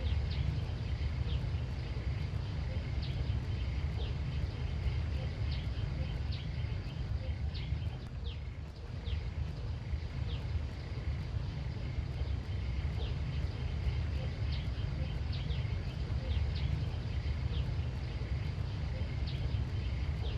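Outdoor ambience: a steady low rumble of wind on the microphone, with short high chirps about once a second and a faint steady high hum behind them.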